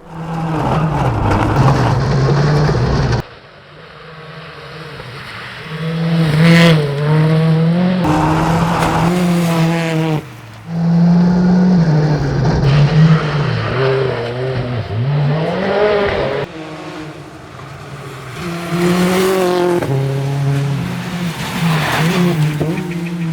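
Proton IRIZ R5 rally car's turbocharged 1.6-litre four-cylinder engine heard from inside the cabin at stage pace, revving up and down through the gears. The sound drops away abruptly about three seconds in and again about ten seconds in, then picks up again.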